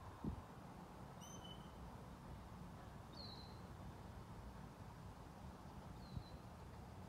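Faint background noise with a few short, high bird chirps: a quick cluster about a second in, then single falling chirps around three and six seconds in. A brief low thump just after the start and a softer one near six seconds.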